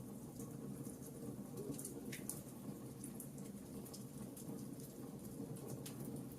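Wood campfire burning: a steady low rush with irregular sharp crackles and pops.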